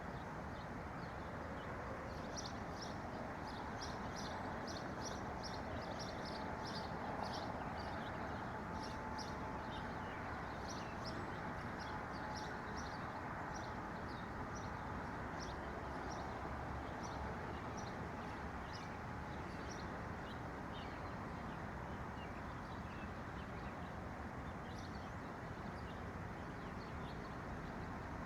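Small songbirds chirping in quick, short, high notes, busiest in the first two-thirds and thinning out toward the end, over a steady low rushing background noise.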